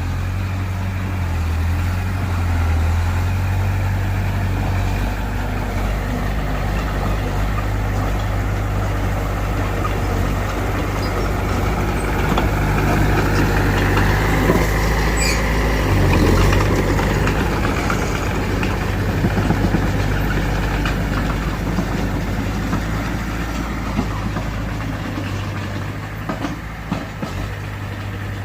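Heavy diesel earthmoving machinery running: a steady low engine drone that swells louder, with a whine rising and falling, for a few seconds about halfway through.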